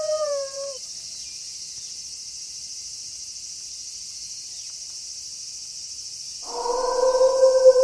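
A wolf howl trails off, falling in pitch, in the first second. Then crickets chirp steadily in a night chorus. About six and a half seconds in, another long wolf howl begins and is held on a steady pitch.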